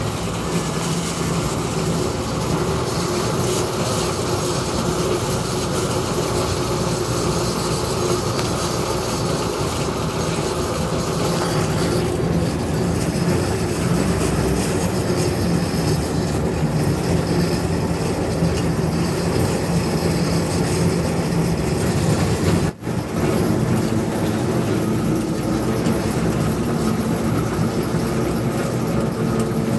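Gemco locomotive hauling a narrow-gauge train, its engine running steadily as the train moves off. The sound drops out for a split second about three-quarters of the way through.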